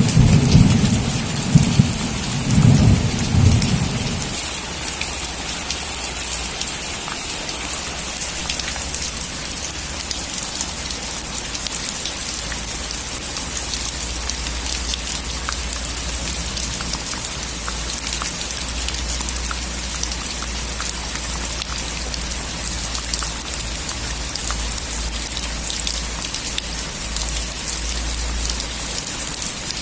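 Heavy rain pattering steadily on a metal roof, with many individual drop ticks. A loud rumble of thunder fills the first few seconds and then dies away.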